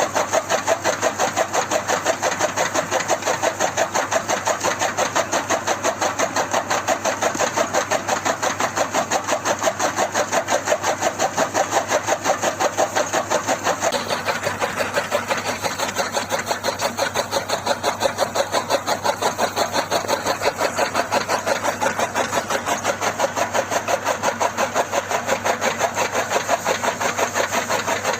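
Tractor engine running steadily at idle, chugging in an even rhythm of about five or six beats a second.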